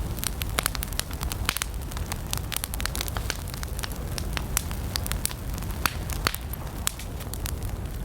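Campfire of burning wood crackling, with frequent irregular sharp pops and snaps over a steady low rumble of the flames.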